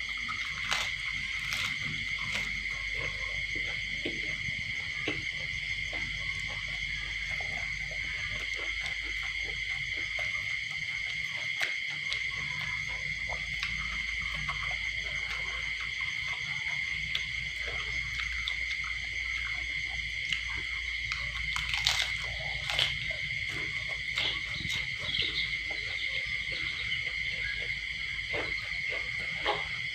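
Steady high-pitched chorus of crickets, unbroken throughout, with scattered faint clicks and taps over it.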